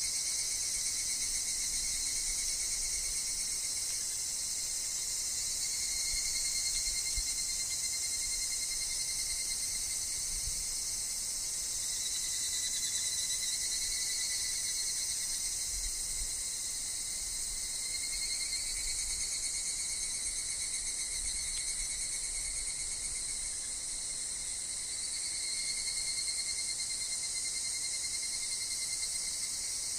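A chorus of higurashi (evening cicadas) and other insects chirring without a break in layered high, pulsing bands, with a faint low rumble of wind underneath.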